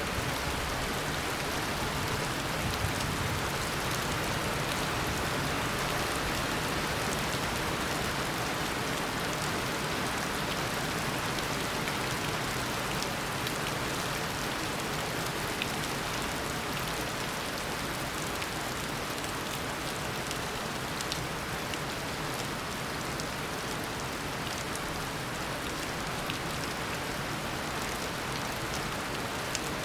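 Steady heavy tropical rain pouring down, a dense even hiss with scattered individual drops ticking.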